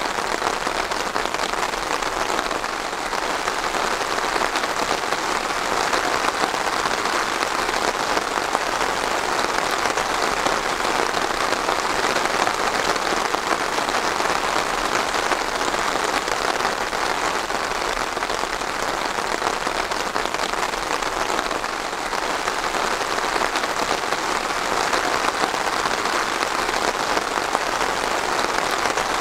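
Steady rain falling and pattering on a surface, an even dense hiss of many drops with no let-up.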